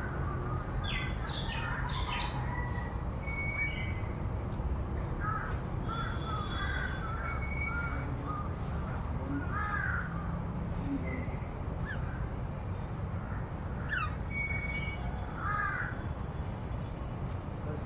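Crows cawing now and then among other birds' short whistled calls, over a steady high hiss and a low rumble.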